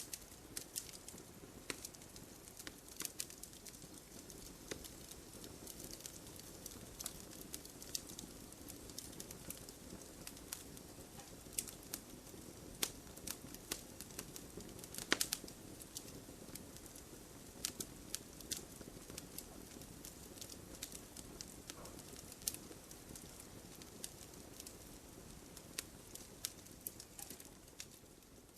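Wood fire in an open fireplace crackling: irregular sharp cracks and pops over a steady low rush of burning, with one louder pop about halfway through.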